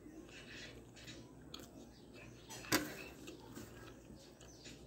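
Close-up chewing and wet mouth sounds of a person eating, with small clicks and one sharper click a little past the middle.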